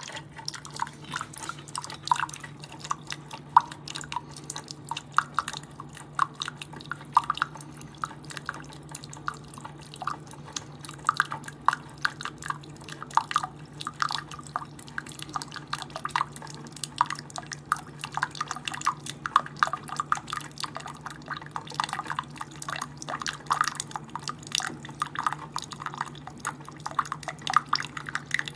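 Keurig K-Supreme Plus single-serve coffee maker brewing: hot coffee dripping and spattering irregularly into the cup over a steady low hum from the machine.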